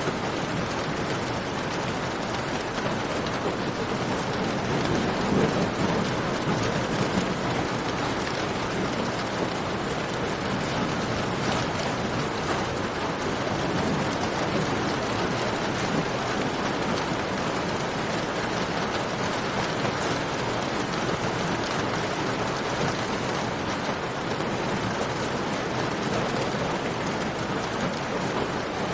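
Steady heavy rain, with a few faint sharp crackles from a campfire over it.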